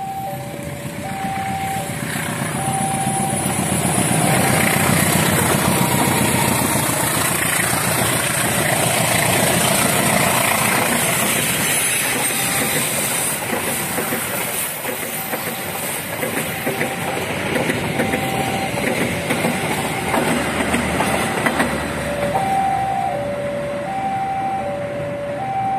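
Passenger train hauled by a CC 203 diesel-electric locomotive passing at a level crossing: the locomotive and carriages rumble by, the noise growing loud within a few seconds and easing off later. The crossing's warning alarm sounds two alternating tones throughout, buried under the train in the middle and clear again near the end.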